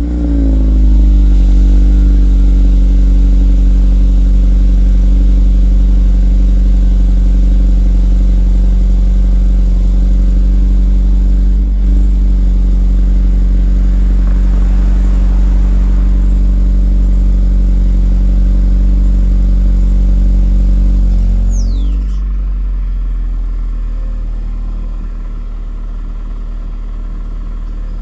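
2020 Mazda 3 hatchback's four-cylinder engine through a MagnaFlow aftermarket exhaust, high-idling steadily just after a cold start. About 22 seconds in, the idle drops to a lower, quieter note as the cold-start fast idle ends.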